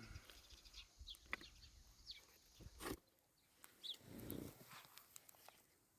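Faint farmyard ambience: scattered short bird chirps, a couple of sharp clicks, and a brief low sound about four seconds in.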